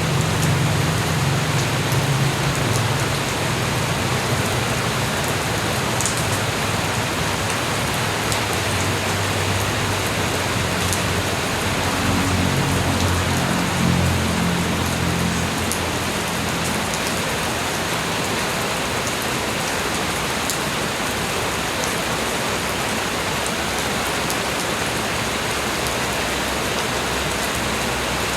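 Light rain falling steadily: an even hiss of drops with scattered fine patters. A low rumble underneath fades away a little past halfway.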